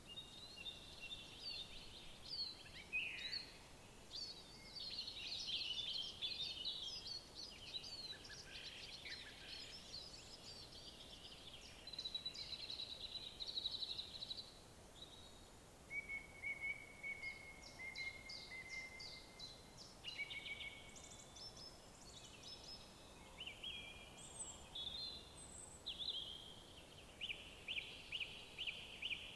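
Several songbirds singing in woodland, overlapping chirps, trills and whistled phrases, with rapid repeated notes near the end.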